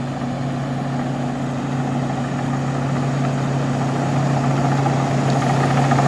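Rice combine harvester's engine running steadily, growing gradually louder.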